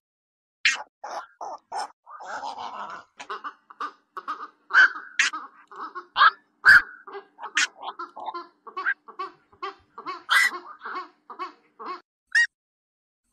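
Black-crowned night herons calling as a lure recording: a quick, irregular run of short, harsh croaks and squawks, several birds overlapping, with a longer grating call about two seconds in.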